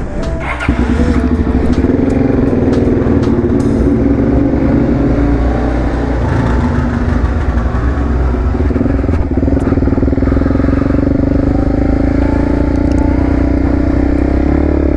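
Suzuki DR-Z400SM's single-cylinder four-stroke engine with an FMF exhaust, running steadily under light throttle while riding, with a slight rise in revs partway through.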